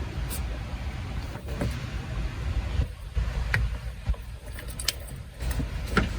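Light metallic clinks and taps of hand tools and loose parts being handled, scattered irregularly over a steady low rumble.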